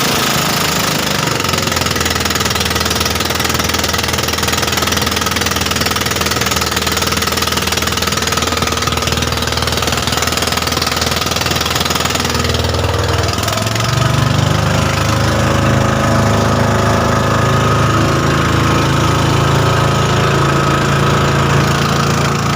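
Motorboat engine running steadily, its note changing about thirteen seconds in.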